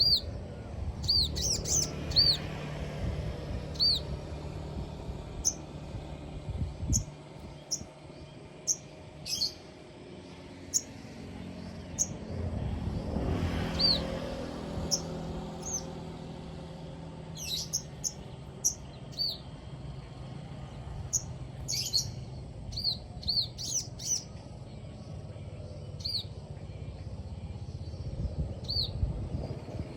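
Sogon bird calling: short, sharp arching chirps, some single and some in quick clusters. A low background rumble swells and fades about halfway through.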